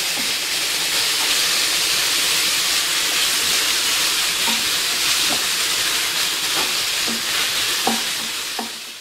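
Chopped chicken sizzling steadily as it fries in a nonstick pan, with a wooden spatula stirring it and scraping the pan now and then. The sizzle fades away near the end.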